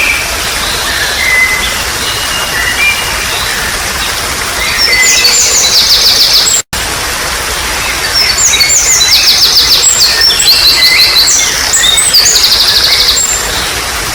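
Water trickling steadily while songbirds sing, with bursts of fast, rapidly repeated high notes about five seconds in and again from about eight to thirteen seconds in. All sound drops out for an instant just before seven seconds in.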